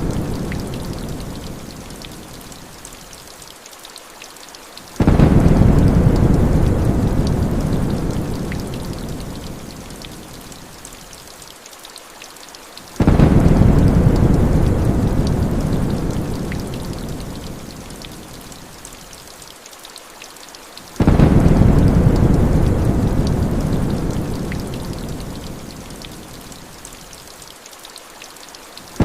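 Heavy rain with a deep thunder rumble that starts suddenly every eight seconds and fades away over several seconds, the same stretch repeating like a short loop. Fine patter of raindrops throughout.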